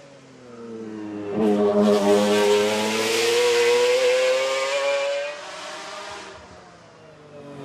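A race car engine accelerating hard past. Its note breaks at a gear change about a second and a half in, then climbs steadily in pitch before fading away as it moves off.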